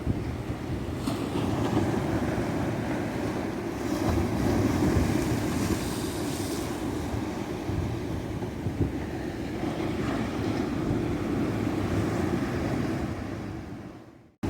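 Ocean surf on a tropical beach: waves breaking and washing in as a steady rushing hiss that swells and eases, louder around a second in and again from about four to six and a half seconds. It fades out to silence near the end.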